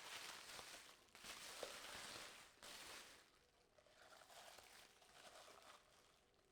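Near silence: faint rustling and handling noise for the first three seconds or so, then quieter.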